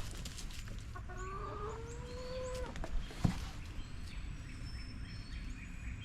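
Chickens calling: one drawn-out call rising slightly in pitch, lasting about two seconds from about a second in. A short knock follows shortly after.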